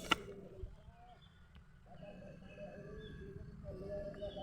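A sharp click right at the start, then faint dove cooing, low wavering calls that come and go from about halfway through.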